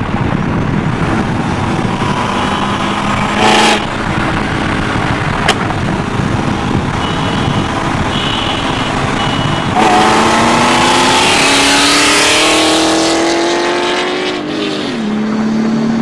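Supercharged C5 Corvette V8 at full throttle, its engine note climbing steadily in pitch and dropping sharply at a gear change near the end, over heavy wind and road noise. Two sharp clicks come a few seconds in.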